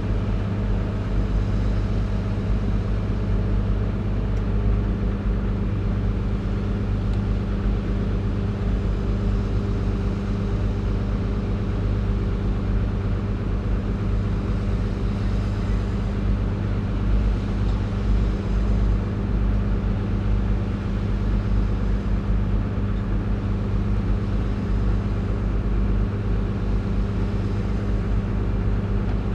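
Caterpillar 349E excavator's diesel engine running at a steady, constant speed.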